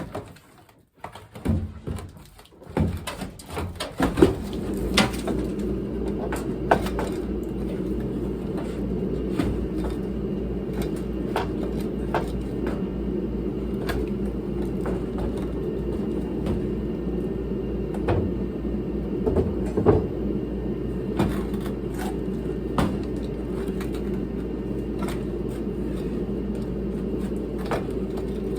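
A steady machine hum starts about four seconds in and runs on, with scattered knocks and clicks from hand work over it.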